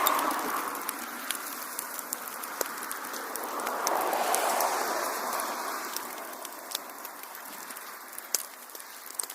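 Wood fire in a fireplace crackling, with scattered sharp pops and snaps over a rushing hiss of flames that swells near the start and again about four seconds in, then eases off.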